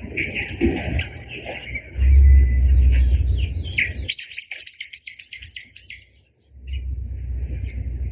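A flock of small birds, sparrows among them, chirping continuously, with a dense run of rapid chirps from about three to six seconds in. A low rumble lies underneath, drops out around four seconds in and returns near the end.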